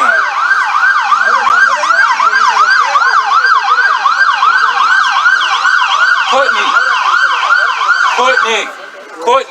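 Emergency vehicle siren in fast yelp mode, its pitch sweeping up and down about three times a second, loud and close; it cuts off about eight and a half seconds in.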